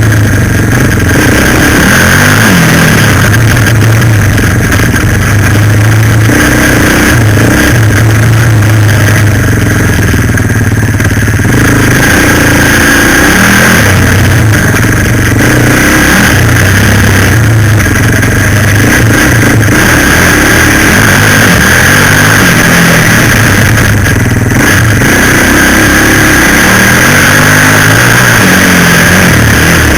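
Suzuki LTZ 400 quad bike's single-cylinder four-stroke engine running under throttle, loud and close, its pitch rising and falling as the rider works the throttle, with a steady high whine above it.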